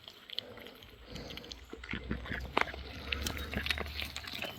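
Goats chewing treats from a hand: a run of small, irregular crunches and clicks.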